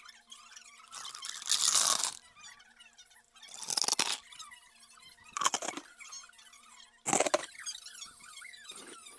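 Crunching and chewing of food close to the microphone, in four loud bursts a second or two apart.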